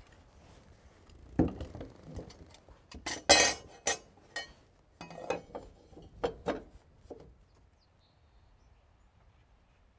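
Hard objects knocking and clinking as they are handled: a cluster of sharp strikes from about a second and a half in until about seven seconds in, the loudest around three seconds in.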